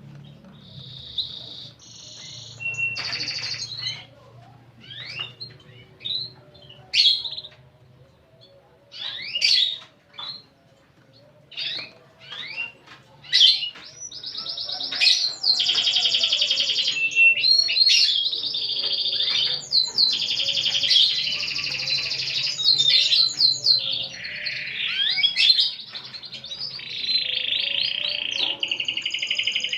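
Domestic canary singing. The first half has scattered short chirps and quick sweeping notes, then about halfway through it breaks into a long, nearly unbroken song of fast trills and rolls.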